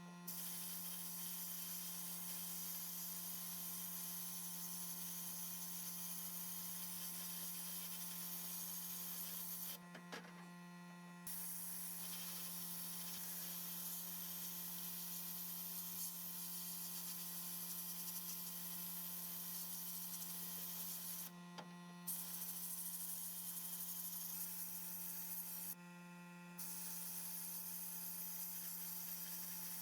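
Steady electrical hum under a constant hiss. The hiss cuts out briefly three times while the hum carries on.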